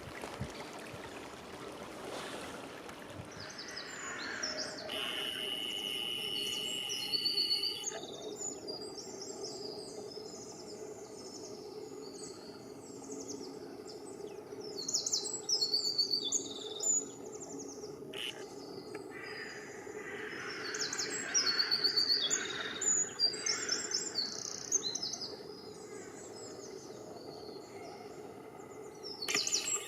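Several small songbirds chirping and singing in quick, high notes that overlap one another, over a faint steady background hiss.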